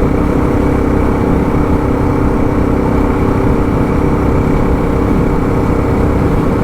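Suzuki DR650 motorcycle's single-cylinder engine running steadily at a constant speed, a loud even hum with no change in pitch.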